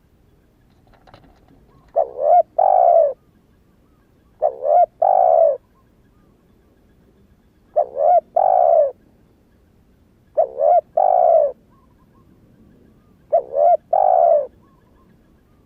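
Spotted dove cooing: five phrases, one every two and a half to three seconds, each of two or three short notes followed by a longer drawn-out coo. It is a young bird just come into song.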